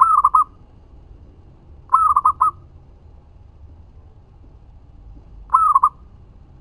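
Zebra dove (perkutut) cooing: three short rippling coos of about half a second each, the second about two seconds after the first and the third some three seconds later.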